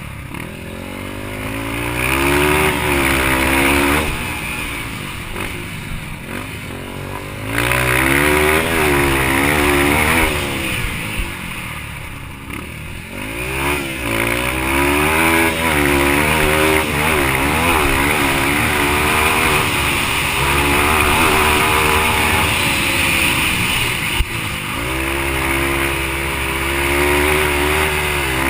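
Yamaha TT-R230 dirt bike's single-cylinder four-stroke engine racing, the revs climbing and dropping repeatedly as the throttle is opened and closed through the corners and gear changes. Twice it eases off and goes quieter for a few seconds before pulling hard again.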